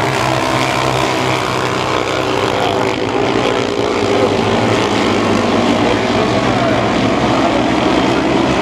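Several mini sprint race cars' engines running at racing speed on a dirt oval, overlapping engine notes that rise and fall as the cars accelerate and pass.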